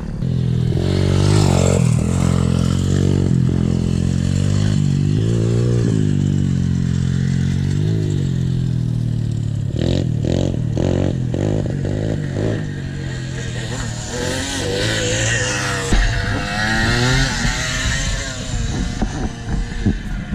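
Small pit bike engine being ridden, its pitch rising and falling over and over as the throttle opens and closes. A run of sharp knocks comes about ten seconds in, and a single thump later on.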